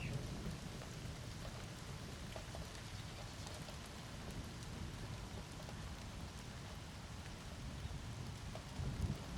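Steady thunderstorm rain falling, with scattered drips and a low background rumble. A low rumble of thunder swells near the end.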